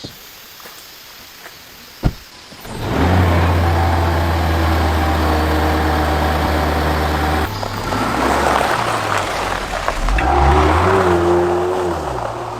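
Land Rover Defender engine starting about three seconds in after a couple of clicks, then running at a steady idle. From about eight seconds its pitch rises and falls as it is revved or pulls away.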